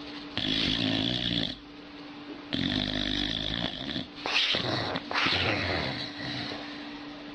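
Dog snoring: a rattling snore on each breath, coming about every one to two seconds.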